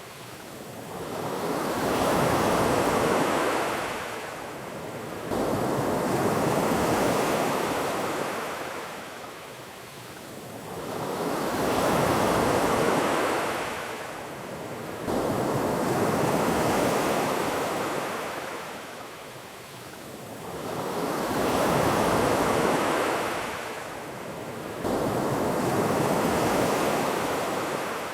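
Ocean waves washing onto a beach, each wave swelling and fading about every five seconds in a steady rhythm.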